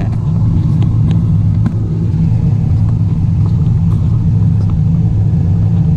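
Excavator's diesel engine running steadily, heard from inside the cab as a low rumble, with a few faint clicks.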